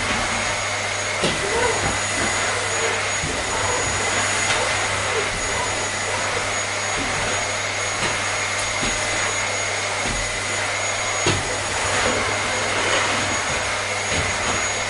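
Vacuum cleaner running steadily: a constant rushing noise with a steady high whine over a low hum, and a few light clicks.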